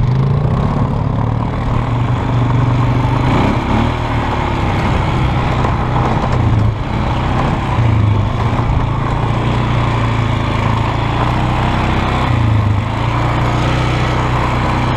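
2002 Polaris Sportsman 500 H.O. ATV's single-cylinder four-stroke engine running steadily while riding, its engine speed rising and dipping slightly a few times.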